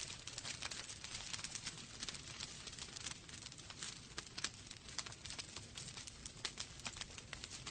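Wood fire crackling in a fireplace: frequent irregular snaps and pops over a soft steady hiss.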